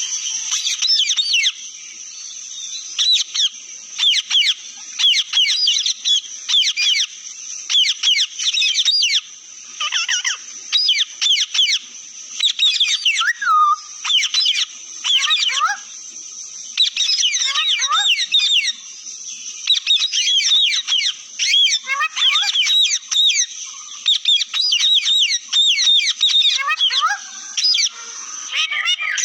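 Pet parrots chirping and chattering: fast, overlapping rising and falling chirps in quick runs with brief pauses.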